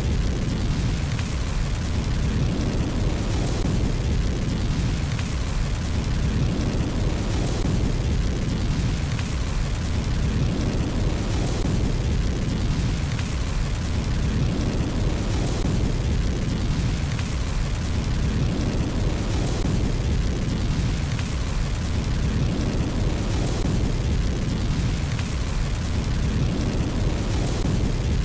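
Fireplace fire burning: a steady low rumble with short bursts of crackling, the pattern repeating about every four seconds.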